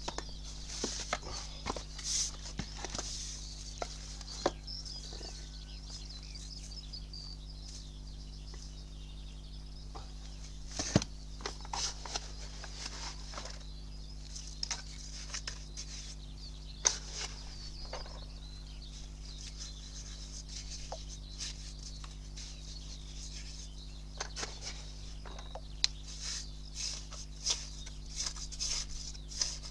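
Steady low hum, with scattered light clicks and taps and faint high-pitched chirping throughout.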